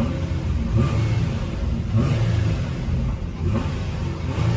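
Nissan Altima Coupe 3.5 SE's 3.5-litre VQ V6 revved in a series of short blips, the engine note rising and falling about once a second.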